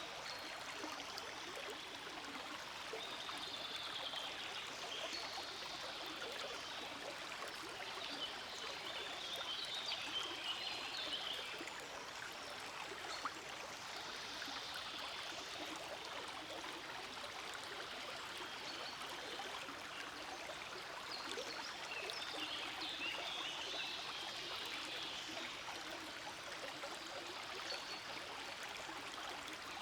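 Forest stream flowing: a steady babble of running water, with brighter, splashier bubbling that swells and fades every few seconds.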